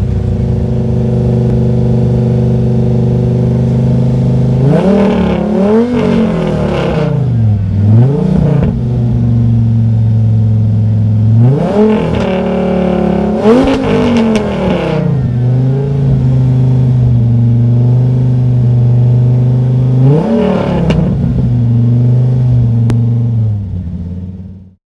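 Alfa Romeo TZ3 Stradale's Dodge Viper V10 idling, with several sharp throttle blips that rise and fall in pitch: a pair about five seconds in, two more around twelve to fourteen seconds, and one near twenty seconds. The sound fades out near the end.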